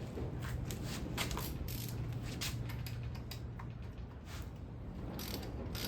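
Hand socket ratchet clicking in short, uneven runs as it works a bolt loose on an engine being torn down.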